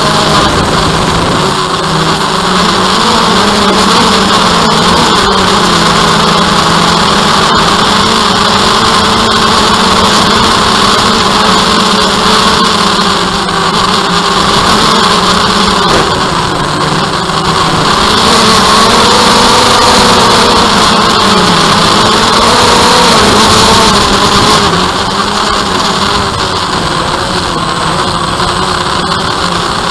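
DJI Phantom quadcopter's motors and propellers buzzing steadily in flight, the pitch wavering slightly as it manoeuvres. The buzz swells louder for several seconds past the middle, then eases back.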